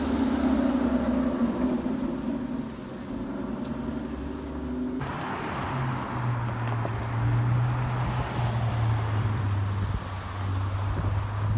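Car engines running: a steady, higher engine note, then an abrupt change about five seconds in to a deeper engine drone that rises slightly and then eases down.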